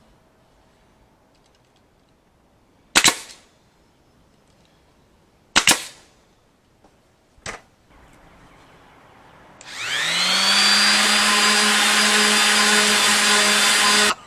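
Three sharp bangs a couple of seconds apart, then an electric power tool's motor spins up, rising in pitch, and runs steadily at full speed.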